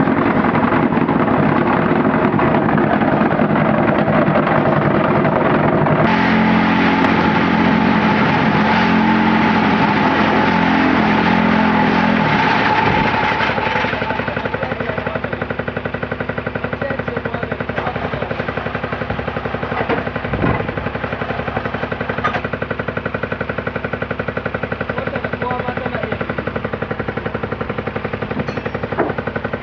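Concrete hollow block making machine running, with a dense, rapid rattling vibration and a steady hum. It is loudest for the first dozen seconds or so, then eases to a quieter steady run with a few sharp knocks.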